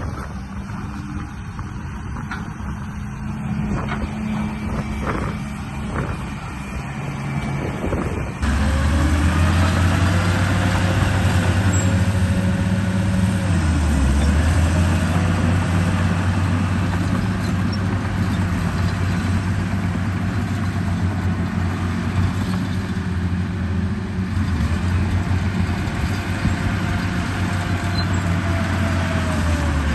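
A quieter stretch with a few clicks, then about eight seconds in a steady, low, engine-like drone starts abruptly, like a truck engine running. It dips briefly in pitch a few seconds later, then runs on steadily.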